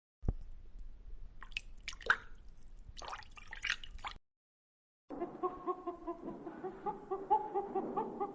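Chickens clucking in quick, repeated short notes, about four a second. This follows a short scratchy, clicking recording with a low hum and about a second of silence.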